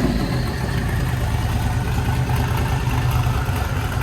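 Twin-turbo Corvette Z06 V8 idling steadily on a chassis dyno.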